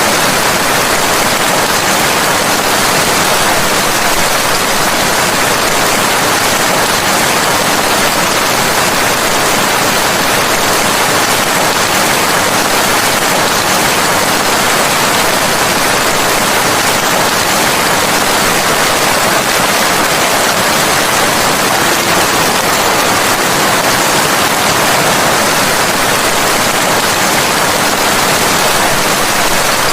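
Steady rain: a dense, even hiss with no single drops or thunder standing out.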